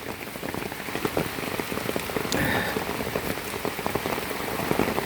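Heavy rain coming down hard, a dense, irregular spatter of drops hitting the ground and surfaces.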